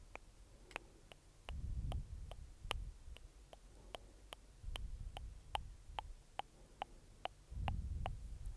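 Close-miked ASMR mouth sounds: sharp wet mouth and tongue clicks about three a second, with low muffled swells roughly every three seconds.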